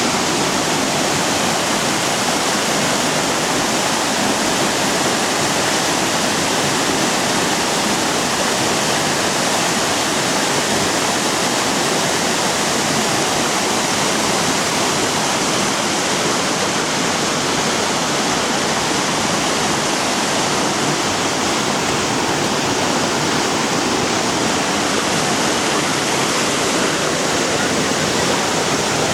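A mountain waterfall's steady, loud rush of falling water.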